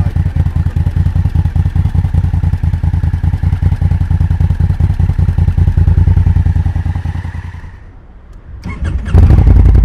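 Honda Africa Twin CRF1000L's parallel-twin engine heard close up at its exhaust, running with a rapid, even throb. The sound fades for about a second, then surges back suddenly and loudly near the end.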